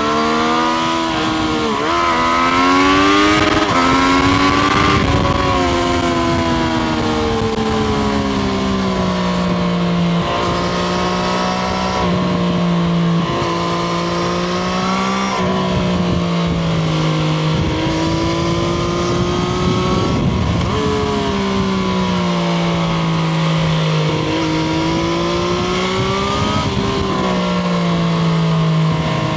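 Triumph Street Triple RS's 765 cc inline three-cylinder engine under riding, repeatedly revving up through the gears with rising pitch and dropping sharply at each shift, then easing off and pulling again.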